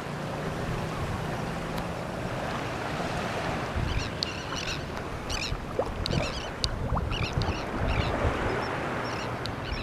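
Seabirds calling in quick, repeated high, harsh notes over a feeding school of fish, starting about four seconds in. Underneath runs a steady rush of wind and water with a low rumble.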